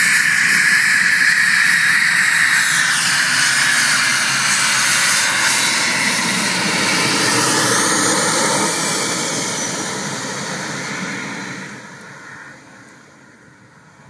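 Cessna Citation's twin turbofan jet engines running with a steady whine, the sound sweeping as the jet moves, then fading away over the last few seconds.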